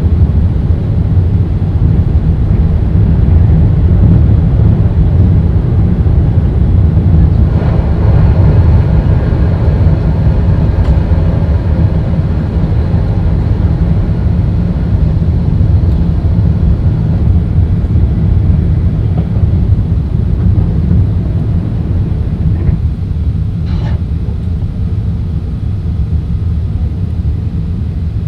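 Airbus A380 engine and airflow noise heard inside the cabin: a steady, deep rumble, with a hissier layer added for several seconds starting about seven seconds in.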